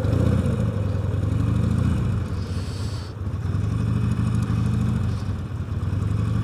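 Motorcycle engine running under throttle, heard through a microphone inside the rider's helmet; the engine note eases off briefly about three seconds in, then picks up again.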